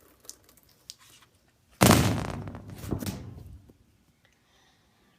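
A sudden loud splash of water about two seconds in, tailing off over about two seconds with a smaller second splash near three seconds, as water is dumped onto a knife-sharpening stone and over the recording iPad.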